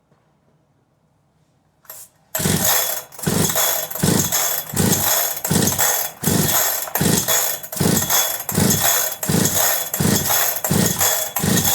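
Holzfforma G372XP chainsaw being pull-started: after about two seconds of quiet, the starter rope is yanked over and over, about once every three-quarters of a second, each pull turning the engine over against compression without it catching.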